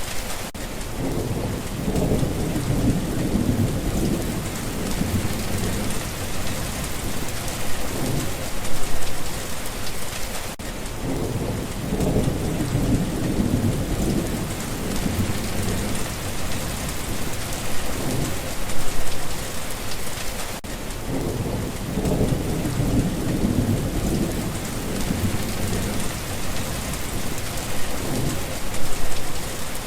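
Steady rain falling, with low rolls of thunder swelling and fading about every ten seconds.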